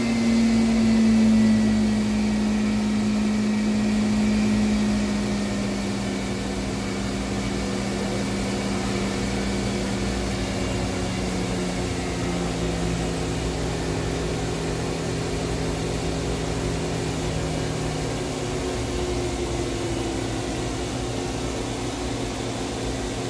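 Spindle of a 1995 Mazak VTC-16A CNC vertical machining center whining as it is slowed down from about 7,000 rpm, its pitch falling in steps until the tone ends about eighteen seconds in. A steady machine hum runs underneath.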